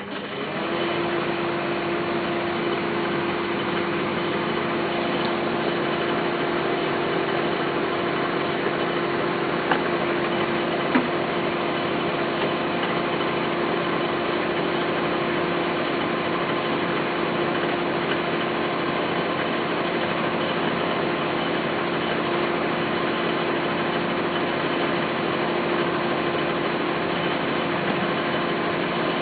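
Microwave oven running with a steady hum and a constant tone, switched on at the very start. Two brief clicks about ten and eleven seconds in.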